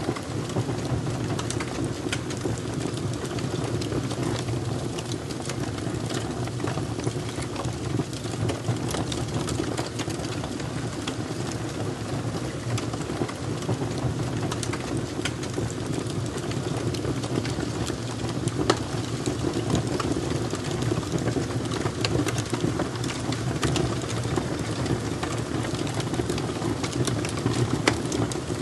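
Wood fire crackling: irregular sharp pops and snaps over a steady low roar, with a couple of louder pops in the second half.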